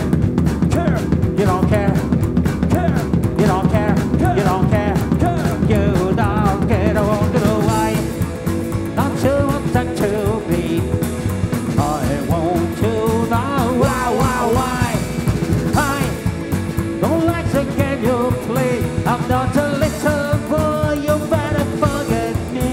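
Rock band playing live, with a singer's voice over a steady drum beat and full band backing.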